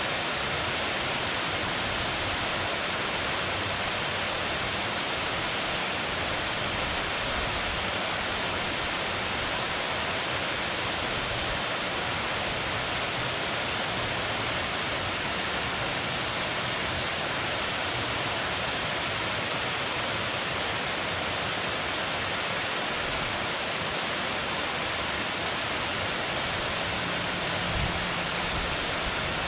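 Water falling from a dam and the river flowing below it: a steady, even rushing. Near the end a faint low hum and a brief low bump come in under it.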